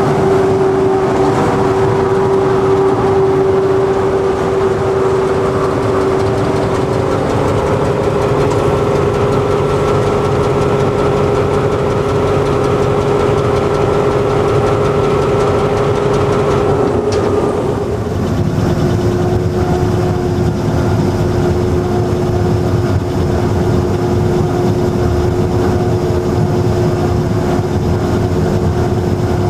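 Diesel locomotive engine running steadily, with a held whine over its drone; about seventeen seconds in its pitch drops slightly and settles at a lower steady note.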